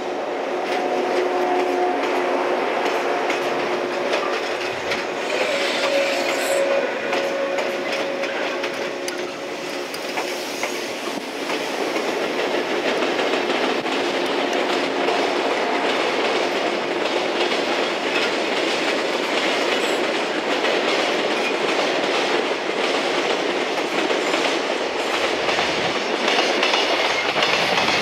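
Trains passing at close range: a yellow JR West electric multiple unit rolls past with steady wheel-on-rail noise, and a container freight train hauled by an EF210 electric locomotive runs on the next track near the end. A few steady whine tones sound through roughly the first ten seconds.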